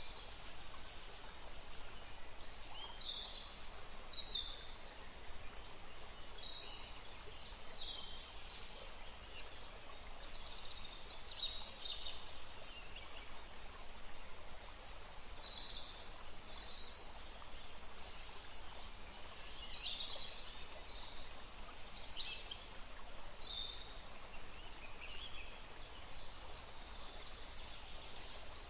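Wild birds calling and singing in short, high chirps and trills, one after another throughout, over a steady background hiss of wind and water.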